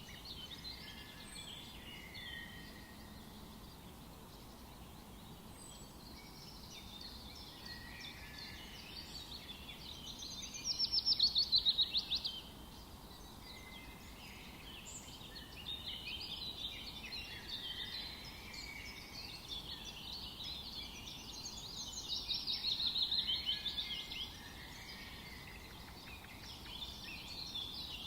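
Forest birdsong: several birds singing at once over a faint background hiss, with a louder rapid trill of falling notes about ten seconds in and again about twenty-two seconds in.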